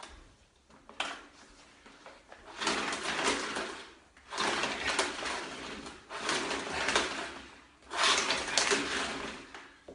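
Handling noises from a vacuum cleaner that will not start: four scraping, rustling bursts of a second or so each as it is worked, with no motor running.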